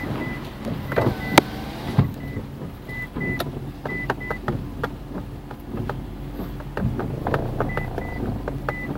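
A vehicle engine running steadily, with short high beeps that come in pairs every second or so and scattered sharp taps.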